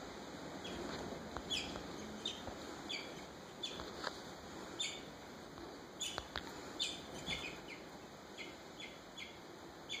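Small bird chirping repeatedly at a nest with young: a dozen or so short, high chirps, each falling quickly in pitch, spaced about half a second to a second apart.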